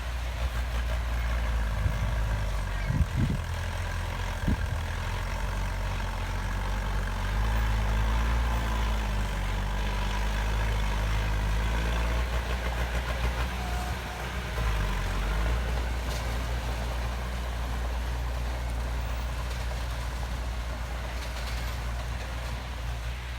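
Heavy diesel engine of an earthmoving machine running steadily at low revs, with a couple of sharp knocks a few seconds in.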